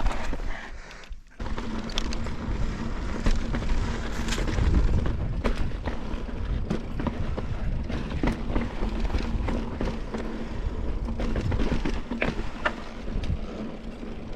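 Mountain bike being ridden over slickrock: a continuous rumble of the tyres on rock with many sharp knocks and rattles from the bike, dipping briefly about a second in.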